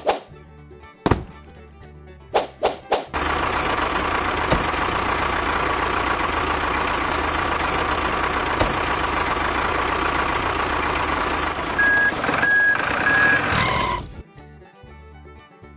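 A truck engine runs steadily for about ten seconds after a few sharp knocks, with three short reversing beeps near the end before it cuts off.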